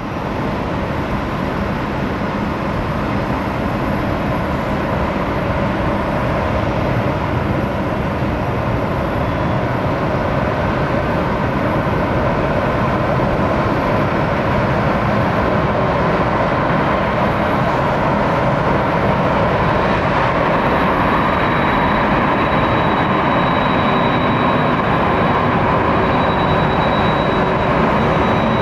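Boeing 767-300ER jet engines running at taxi idle as the airliner rolls in to its stand: a steady roar that slowly grows, with a faint high whine coming in about two-thirds of the way through.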